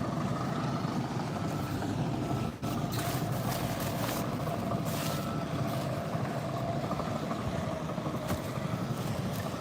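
A large vehicle's engine running steadily, with faint intermittent high beeps.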